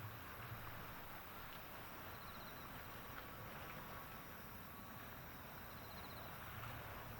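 Faint, steady outdoor background noise with a low rumble, and short faint chirps about every two and a half seconds.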